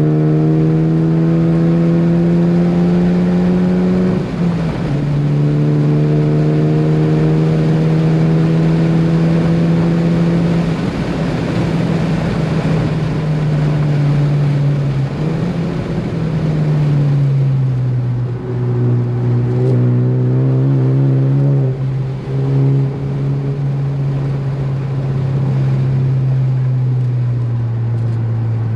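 Ford Focus ST's turbocharged engine driven hard on a race track: the pitch climbs under acceleration, drops at a gear change about four seconds in and climbs again, then falls as the car slows around two-thirds of the way through and runs lower and steadier.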